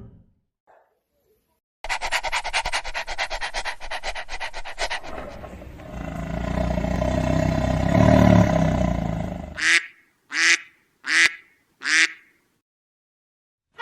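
Animal calls: a fast run of rapid pulses about two seconds in, then a longer pitched call, then four short calls in quick succession near the end.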